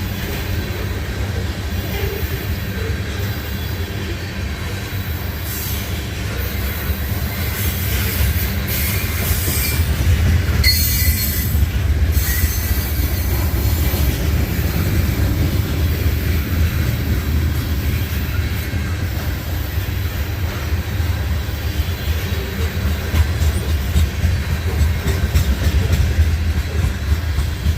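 Railcars rolling by on steel wheels with a steady low rumble, the wheels squealing in high, shrill streaks about ten seconds in.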